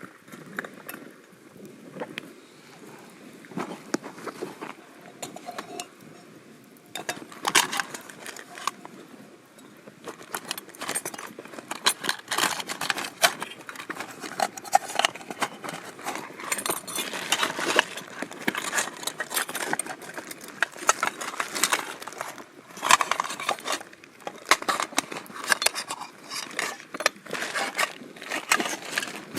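Metal clinks and knocks of camp cookware and utensils being handled, such as an iron griddle and cutlery. They are sparse for the first seven seconds or so, then come thick and fast.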